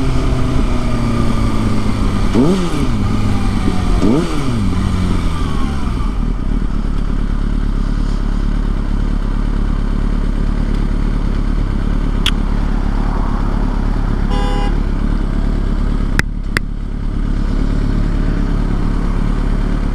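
Kawasaki ZX-6R inline-four sport bike accelerating through the gears: the engine pitch climbs sharply twice in the first few seconds, dropping back with each upshift. It then settles into steady cruising with a dense rush of engine and road noise.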